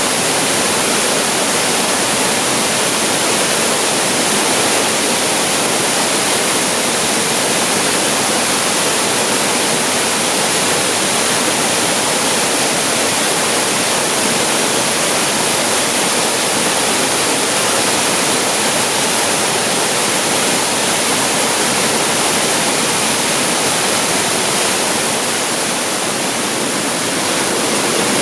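Waterfall crashing steadily, a loud even rush of falling water spread from low to very high pitches, dipping slightly in loudness near the end.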